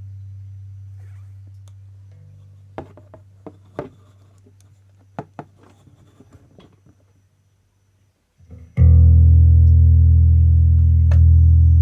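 Electric bass playing through an Origin Effects DCX Bass pedal: a low note fades away with scattered sharp crackles and pops, the noise the owner puts down to a faulty solder joint in the pedal. After a moment of silence, a loud, steady low bass note starts about nine seconds in.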